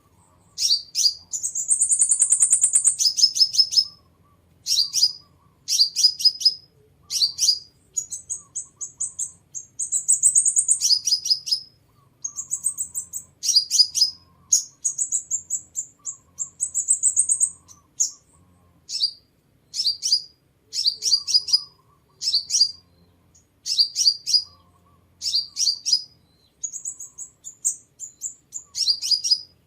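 Sunbird calling and singing: groups of sharp, high chipping notes in quick succession, broken by several longer, high trilled phrases, repeating throughout.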